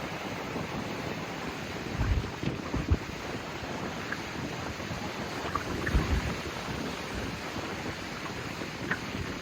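Heavy rain falling as a steady, even rushing hiss, with a few low thuds about two, three and six seconds in.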